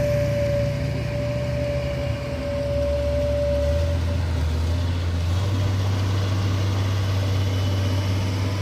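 A heavy vehicle engine running steadily at a low hum, with a steady high whine over it that stops about four seconds in; the engine note shifts slightly around then.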